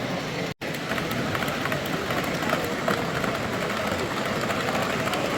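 Indistinct crowd chatter in a large hall mixed with the steady running of model trains. The sound cuts out completely for an instant about half a second in.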